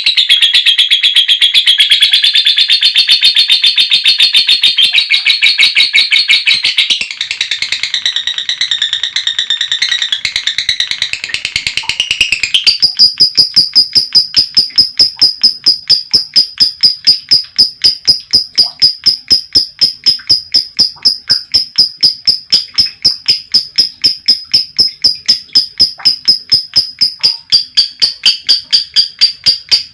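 Lovebird chattering in a long, unbroken shrill run (the 'ngekek panjang' call of a female lovebird). For the first dozen seconds the notes come thick and fast. Then, around halfway, the run turns into an even series of piercing high notes, several a second.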